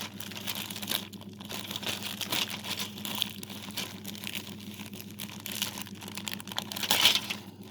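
Plastic bag holding model-kit parts crinkling and rustling as it is handled, with a louder crinkle about seven seconds in.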